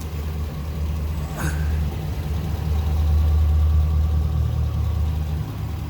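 Chevrolet Silverado 2500 HD's V8 engine idling steadily, a low even rumble. There is one short click about a second and a half in.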